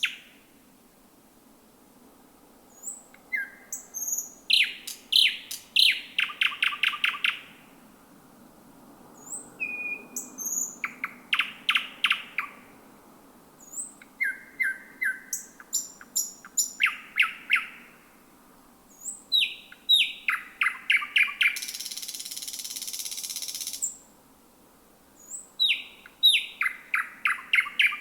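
A thrush nightingale singing: five phrases of fast repeated clicking and whistled notes, each followed by a pause of a second or two. The fourth phrase ends in about two seconds of harsh, noisy rattle.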